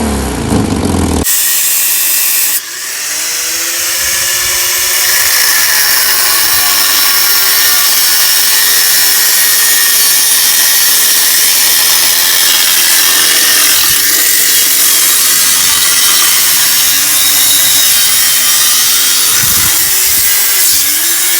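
A power tool running under load, a loud, steady, harsh cutting noise that starts about a second in and holds, its motor pitch dipping and rising a little as it bites.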